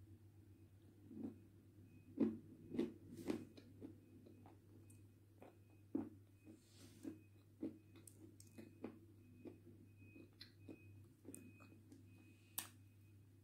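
Close mouth sounds of biting and chewing a soft, cream-dipped biscuit: quiet, irregular wet clicks and smacks, with a steady low hum underneath.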